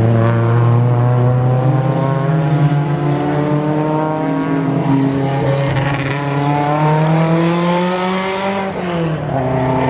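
Racing car engine running hard, its note climbing steadily, then dropping sharply about nine seconds in as the driver lifts or shifts gear.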